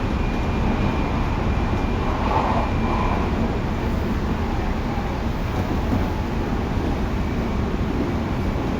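Tobu 9050 series electric train running along the line: a steady rumble of wheels on rail with a faint, steady high whine.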